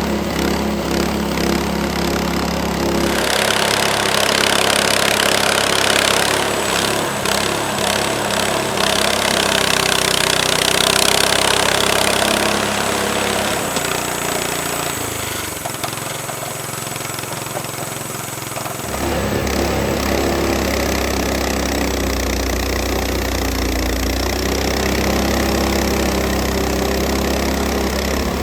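Petrol engine of a Frontier OS18 portable bandsaw sawmill running while milling black walnut. A louder, hissier stretch runs through the first half, and the engine note drops for a few seconds after the middle before it steadies again.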